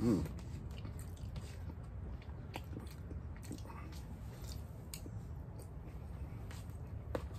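A person chewing a mouthful of fried rice, with scattered soft mouth clicks and small clicks of eating. There is a short vocal sound right at the start.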